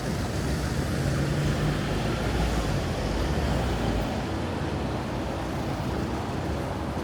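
Outdoor city street ambience: a steady hiss with a heavy low rumble that eases off about four seconds in.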